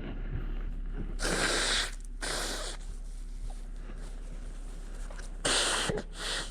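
Broom sweeping spilled feed on a concrete floor: four short swishing strokes, two about a second in and two near the end.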